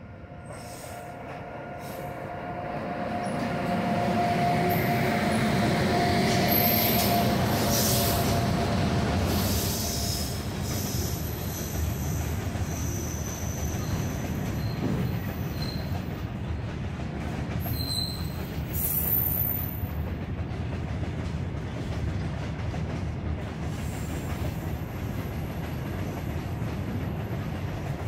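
Goods train passing at close range: the electric locomotive approaches and grows louder over the first six or seven seconds. A long rake of open box wagons then rolls by with a steady rumble and wheel clatter, while high-pitched wheel squeals come and go.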